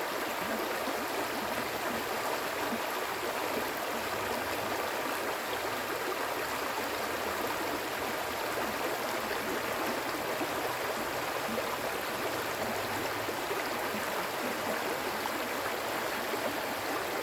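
Water flowing steadily in a stream, an even rushing with fine gurgles.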